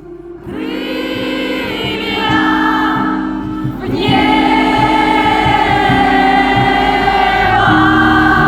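Live rock band playing, with voices holding long, choir-like notes over the bass; the chord changes about four seconds in.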